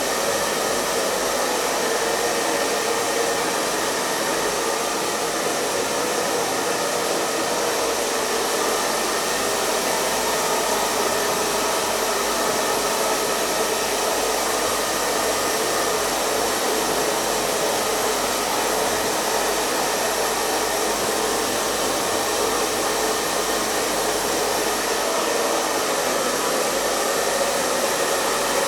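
Hair dryer running continuously, a steady rushing of air over the motor's hum with no change in speed, plus a faint high whine.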